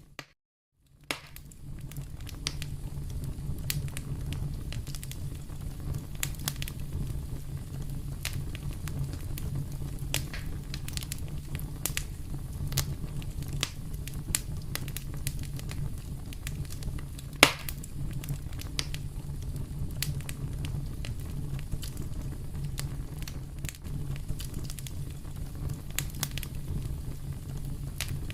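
Wood fire in a fireplace crackling: a steady low rumble of the flames with scattered sharp pops, the loudest one a little past the middle. The sound drops out for about the first second, then comes back in.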